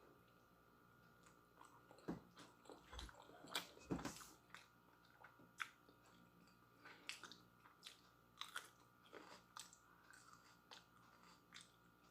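A person bites into and chews a raw chili pepper with instant noodles, close to the microphone. The sound is a scattering of soft crunches and wet mouth clicks, the firmest around four seconds in.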